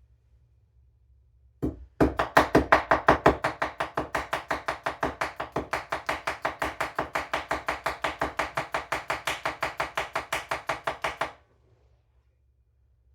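Old IKEA chef knife slicing a potato thin on a cutting board, each cut ending in a tap on the board. A single cut, then a fast, even run of about six cuts a second for some nine seconds, stopping well before the end.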